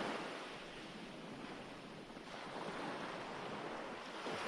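Recorded ocean waves washing ashore in a steady rush of surf, one wave ebbing about halfway through before the next surges in.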